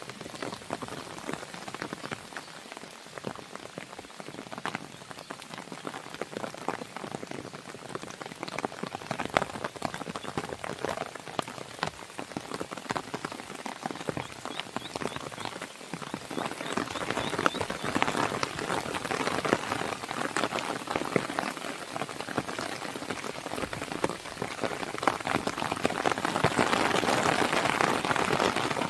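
Rain falling on a window, mixed with the crackle of a wood fire: a steady hiss full of small ticks and pops, growing louder about halfway through and again near the end.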